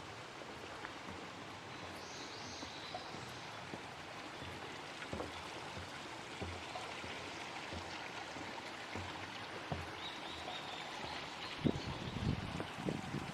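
A shallow stream babbling steadily. Brief high chirps come twice, and a few low knocks sound near the end.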